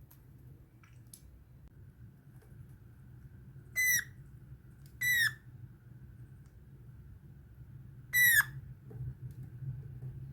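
Pet eastern rosella giving three short whistled calls, two close together and a third a few seconds later that drops sharply in pitch at its end.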